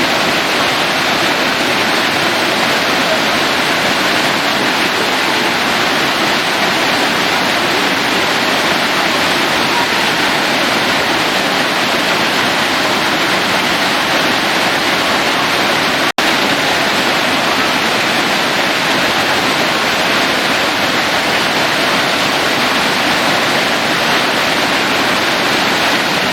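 Waterfall pouring over rock: a loud, steady rush of falling water that cuts out for an instant about sixteen seconds in.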